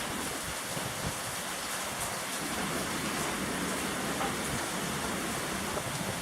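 Rain falling steadily in a windstorm, an even hiss, with the low rush of the wind swelling a little about halfway through.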